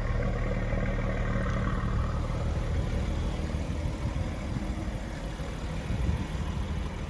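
BMW M140i's turbocharged straight-six idling steadily, heard at the rear through an exhaust with a CST turbo sports cat and resonator delete.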